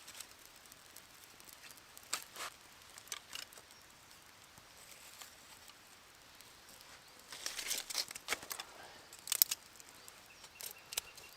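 Sparse crackling and rustling from a small, newly lit fire of birch bark and sticks: scattered sharp cracks, a denser run of them about three quarters of the way in, and one loud crack shortly after.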